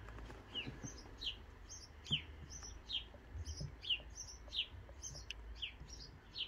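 A small bird chirping outdoors: a short high note that falls in pitch, repeated about once a second, with higher chirps in between.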